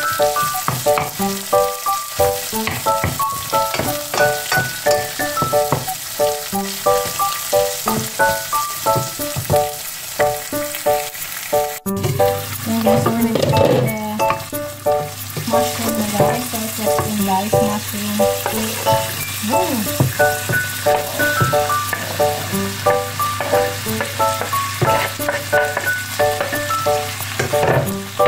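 Diced sausage and bacon sizzling and frying in a stainless steel pan while being stirred with a wooden spoon, under a light background melody of short repeating notes.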